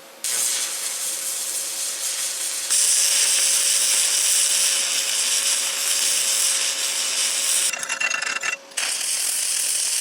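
Stick-welding arc crackling steadily as a hardfacing bead is laid with a Blue Demon wear-coat rod. The arc is broken off briefly near the end and then struck again.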